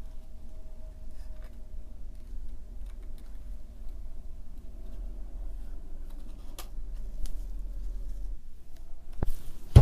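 Faint clicks and light scraping of small metal and rubber parts being handled while a rotary hammer is reassembled on the bench, over a low steady hum that stops about eight seconds in. A sharp click and then a louder knock come near the end.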